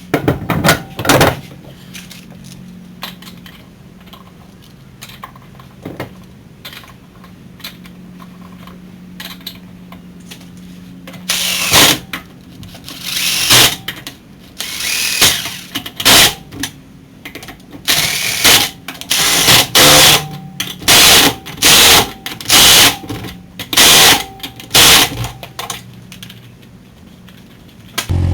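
Impact wrench running the lug nuts onto a car wheel in repeated short, loud bursts, coming quickly one after another near the end, with a few knocks of the wheel being handled near the start.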